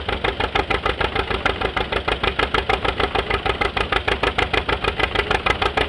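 An antique engine running at a steady speed with a fast, even beat of about eight pulses a second, just after it has been set going.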